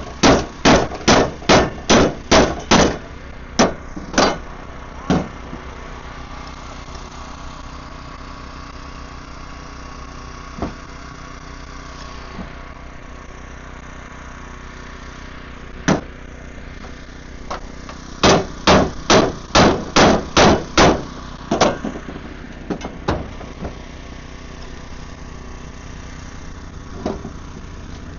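Hammer blows on metal, in quick runs of about three strikes a second: one at the start, a few single hits, then another run of about eight strikes a little past the middle. A vehicle engine idles steadily underneath.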